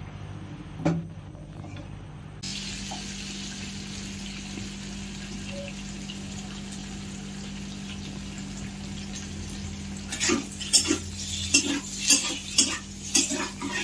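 Paneer cubes frying in oil in a kadai, a steady sizzle starting about two seconds in. From about ten seconds in, a metal spatula repeatedly scrapes and knocks against the pan as the cubes are stirred.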